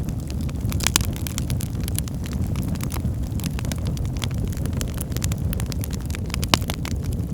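Wood fire burning in a fireplace: a steady low rumble of flames with frequent sharp crackles and pops, the loudest pops about a second in and near the end.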